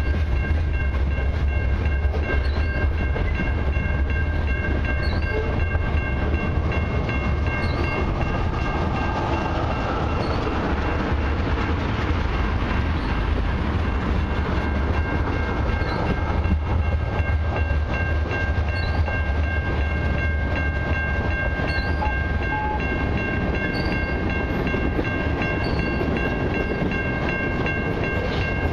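Freight cars of a long train (covered hoppers and boxcars) rolling past over the rails with a steady heavy rumble. Over it a level-crossing warning bell rings steadily.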